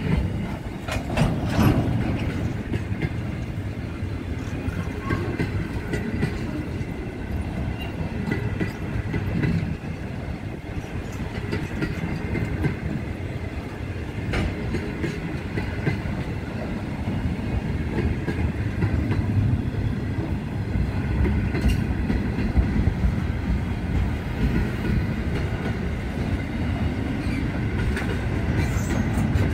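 Intermodal freight train of container and trailer cars passing close by: a steady rumble of wheels on the rails with scattered clicks from the rail joints.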